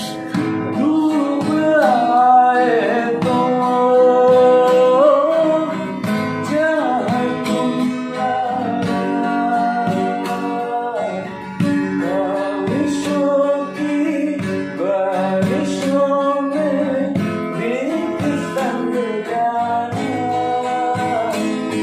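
A voice singing a melody with long held, wavering notes over a strummed and plucked acoustic guitar.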